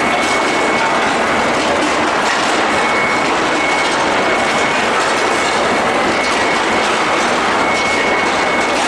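Steady, loud running noise of a steel-ball forging production line with its bar heating furnace, with a thin high whine that fades in and out.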